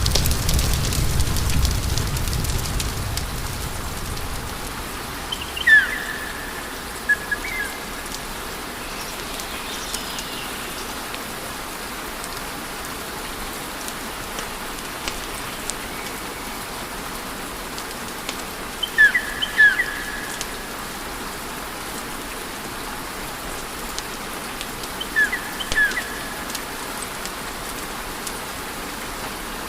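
Wood fire hissing and softly crackling, a low rumble fading away over the first few seconds. Short high chirps or whistles come in small pairs about six, seven, nineteen and twenty-five seconds in.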